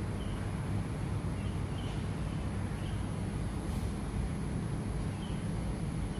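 Steady low outdoor rumble, with a few faint, short high chirps from a small bird scattered through it.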